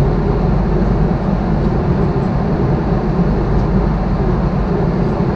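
Steady low rumble and rushing of an Airbus A330-300's engines and airflow, heard inside the passenger cabin in flight.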